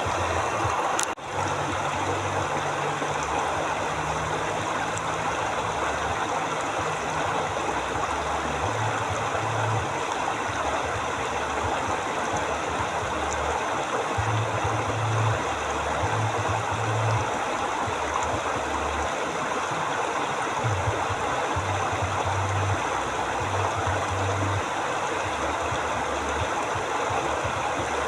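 River water flowing steadily, a continuous rushing with a low rumble that swells and fades underneath. The sound cuts out very briefly about a second in.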